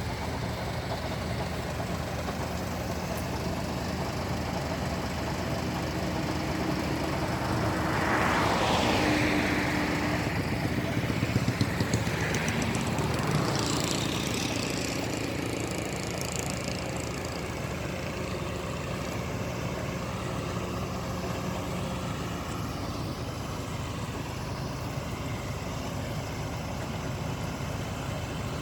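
Diesel engine of a concrete mixer truck running steadily. It swells louder with a rushing noise about a third of the way in, with a brief rattle near the middle, then settles back to a steady run.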